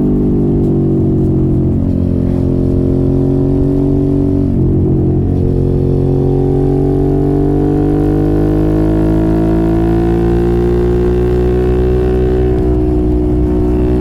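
Motorcycle engine with an aftermarket exhaust running under way. Its note breaks briefly about five seconds in, then climbs steadily in pitch as the bike accelerates, and eases off near the end.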